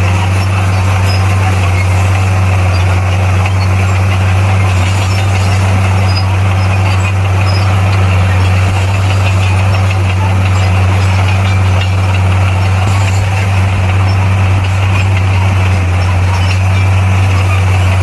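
Bulldozer's diesel engine running at a steady, unchanging pitch: a deep, even drone with a constant mechanical noise over it.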